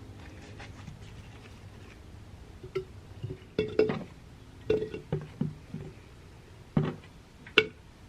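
Glass and dishware being handled in a kitchen: a string of sharp, irregularly spaced clinks and knocks, some with a brief ringing tone.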